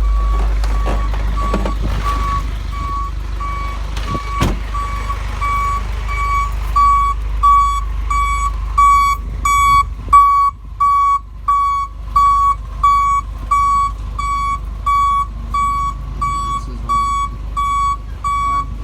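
Truck backup alarm beeping in reverse, a steady single-pitch beep repeating about one and a half times a second, over a low rumble that fades about halfway through. A single sharp knock sounds about four seconds in.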